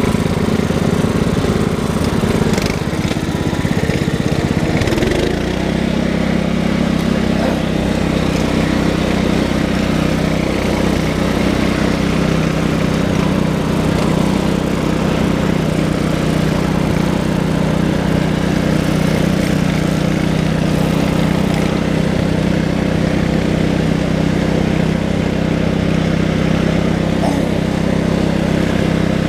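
A tractor engine running. Its note is uneven for the first five seconds or so, then holds a steady, even pitch.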